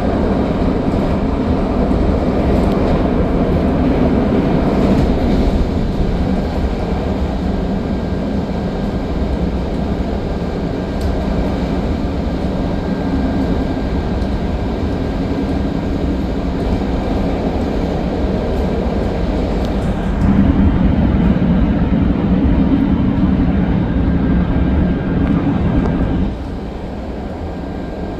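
CTA Yellow Line train running on the track, a steady loud rumble that grows louder about twenty seconds in and drops off sharply near the end.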